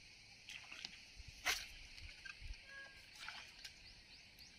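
Faint outdoor ambience: birds giving short chirps and a brief whistle over a steady high hiss, with one sharp, louder call or click about a second and a half in.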